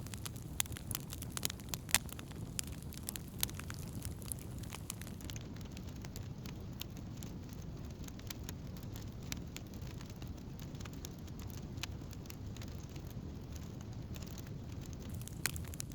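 Wood campfire crackling: sharp pops come thick at first and again near the end, sparser in between, over a steady low rumble.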